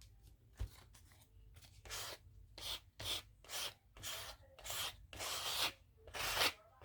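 Hand rubbing over paper in about eight short strokes, roughly two a second, starting about two seconds in, the last one the loudest: pressing a freshly glued collage piece down.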